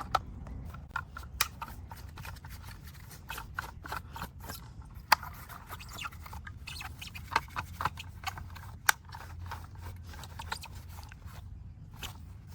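Irregular sharp clicks and light scraping from a small diecast model car being handled and cleaned, over a low steady hum.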